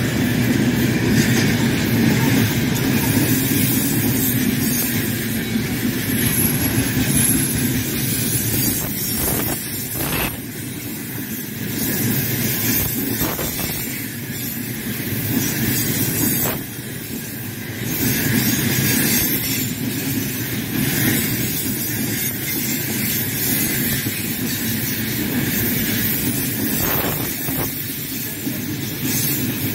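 Open gondola wagons of a freight train rolling past close by: a steady rumble of steel wheels on the rails, with a few knocks along the way.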